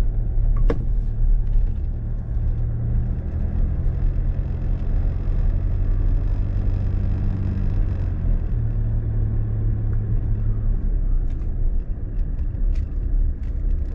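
Off-road car's engine running at low speed as it drives slowly, a steady low drone over tyre noise, its pitch shifting slightly a couple of times.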